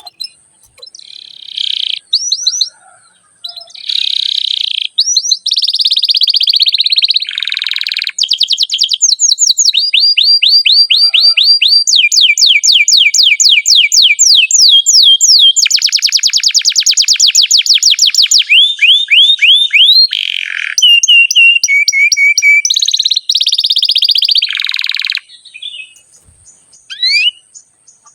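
Domestic canary singing a long song of fast trills and rolls: high, quickly repeated sweeping notes in chains, the phrases switching one to the next without a break from about eight seconds in. The song breaks off about twenty-five seconds in, leaving a few single chirps.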